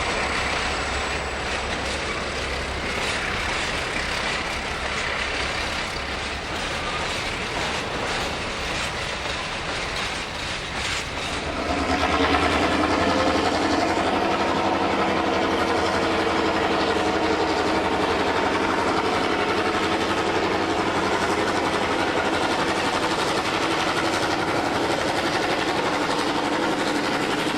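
Diesel-electric locomotive engine running with a steady low drone. About twelve seconds in it becomes abruptly louder, with a fuller, steady engine note that holds to the end.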